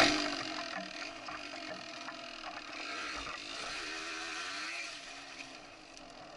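Yamaha DT 125's single-cylinder two-stroke engine revving up and down as the dirt bike is ridden, with a brief thump at the very start. The revs fall and the engine goes quieter near the end.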